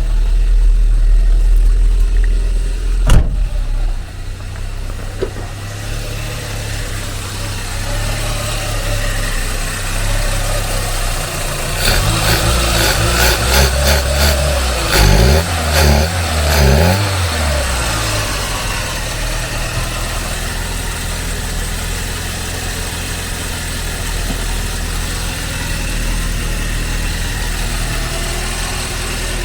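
Renault Twingo 1.2 8-valve four-cylinder engine running after its head gasket has been replaced. It is revved several times about halfway through and then settles back to a steady idle. There is a sharp click about three seconds in.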